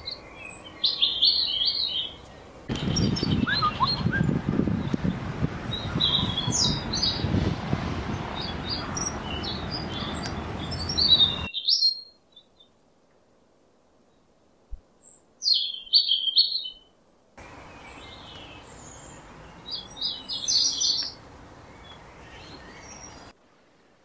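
Small songbirds chirping and twittering in a string of edited clips that cut in and out, the first being European goldfinches. From about three seconds in to about eleven, a loud low rushing noise sits under the chirps; after that it drops to near quiet with one short burst of chirps, then more chirping over a faint hiss.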